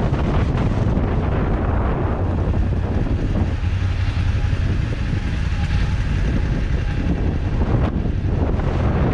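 Motorcycle riding with heavy wind buffeting on the microphone over a steady low rumble. The wind noise eases about a third of the way in, letting a faint steady engine note through, and picks up again near the end.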